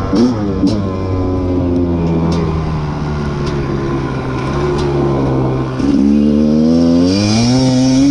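Rieju MR300 300cc two-stroke enduro dirt bike engine under riding load. The revs fall off over the first couple of seconds, run low and steady, then rise sharply as the bike accelerates about six seconds in.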